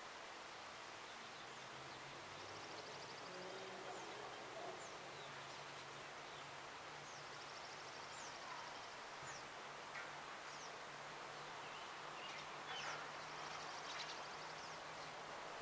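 Small birds calling faintly: scattered short high chirps and three brief, high, buzzy trills, over a steady outdoor hiss and a faint low hum.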